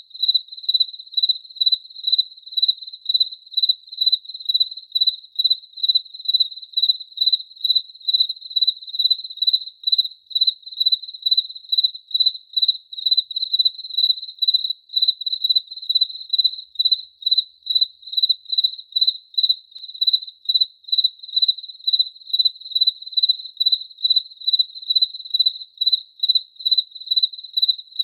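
Cricket chirping: a steady, even run of high-pitched chirps, about two a second.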